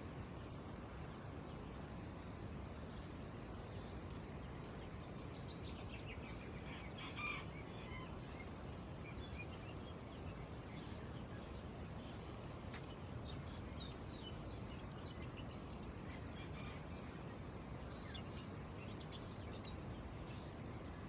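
Many caged songbirds chirping and twittering in quick, very high calls over a steady high trill. The chirping grows denser and louder about two-thirds of the way in.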